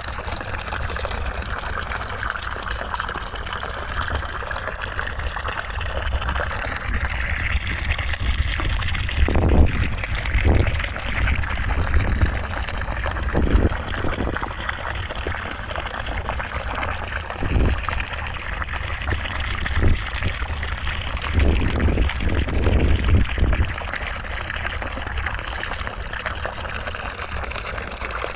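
Steady rushing white noise with a deep rumble underneath, and several soft low thumps in the middle stretch.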